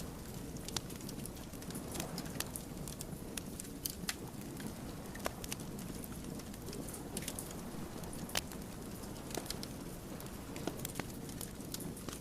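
Wood campfire burning, the logs crackling and popping in irregular sharp clicks over a steady low rush of flame.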